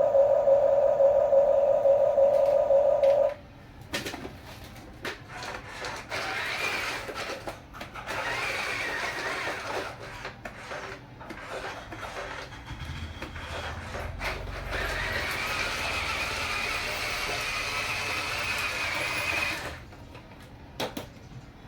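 Small electric motors and gearboxes of radio-controlled toy construction vehicles. A steady high whine cuts off suddenly a few seconds in, followed by on-and-off whirring and grinding with clicks as the toy works.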